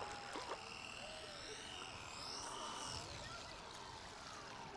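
Faint high whine of a radio-controlled flying boat's motors and propellers overhead. Its pitch rises and then falls in the middle as the model passes, over a low wind rumble.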